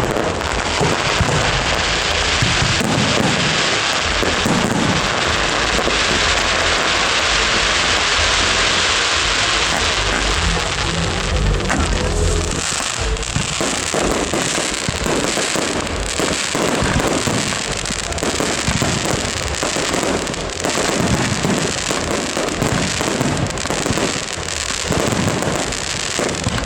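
Fireworks display: a dense crackling fizz through the first half, then a rapid, irregular run of bangs and pops from about halfway on.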